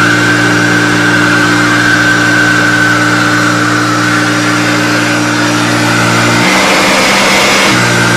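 Hoover Turbopower Total System U2798 upright vacuum cleaner running, a loud steady motor hum with a higher whine over it. About six and a half seconds in the hum briefly gives way to a rougher sound for about a second, then steadies again.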